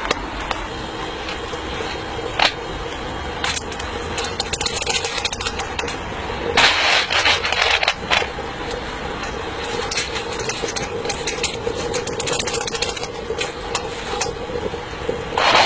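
Electric fan running steadily with a constant hum, drawing the charcoal fire of a miniature coal-fired steam locomotive. Scattered metallic clicks and knocks of handling sound over it, with a loud rushing noise lasting about a second and a half near the middle.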